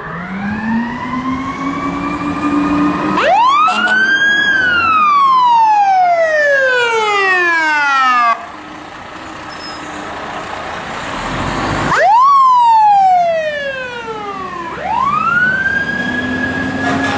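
Fire truck siren wailing. It winds up slowly, climbs sharply to a high peak, then slides down steadily and cuts off abruptly about eight seconds in. It rises and falls again and ends on a held high tone.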